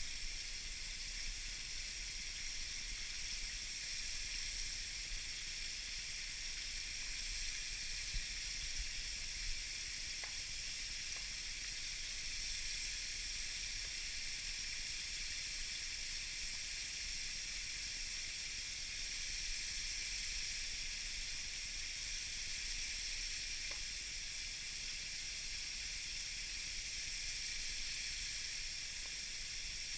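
Flour-and-cornmeal-coated duck nuggets frying in hot oil in a frying pan: a steady sizzle with a few faint pops.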